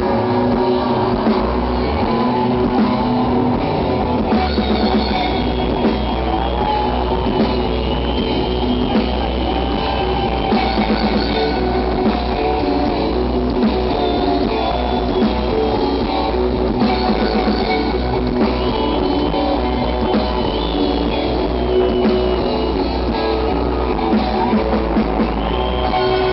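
Rock band playing an instrumental stretch of a song: drum kit, bass and guitars, with a high melody line wavering over the top.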